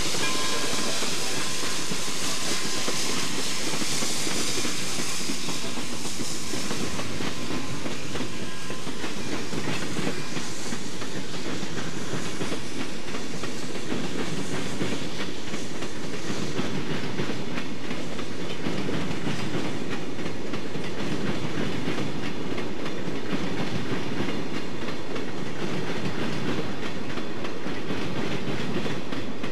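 Freight train cars rolling past behind the Pere Marquette 1225 steam locomotive, their wheels clicking over the rail joints in a steady rumble. A steam hiss fades away over the first several seconds.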